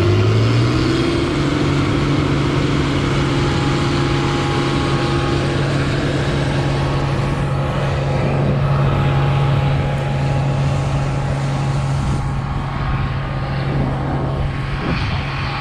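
An engine that has just revved up, settling about a second in and then running steadily at high speed.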